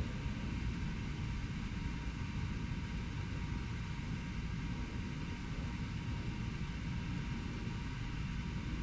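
Steady low rumble of urban traffic, with an even hiss above it and a faint steady tone throughout.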